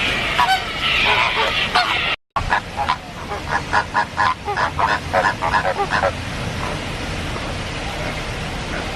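Birds calling in an aviary. A steady high-pitched background sound stops abruptly at a cut about two seconds in. A quick run of short, repeated loud calls follows, several a second, and dies down after about six seconds.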